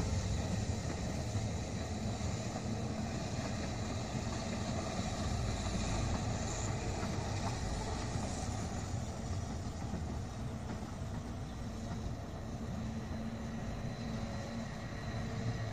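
Rhaetian Railway passenger train running over the Brusio spiral viaduct at a distance: a steady low rumble with no distinct clicks or squeals.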